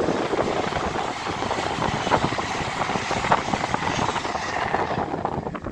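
LNER Azuma high-speed train passing at speed: a steady rushing of wheels on rail and air, with many fine clicks, that drops away about five seconds in as the train moves off.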